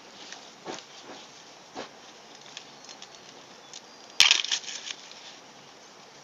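Fresh raw corn crunching: scattered small crunches and clicks, then a loud crackling crunch about four seconds in.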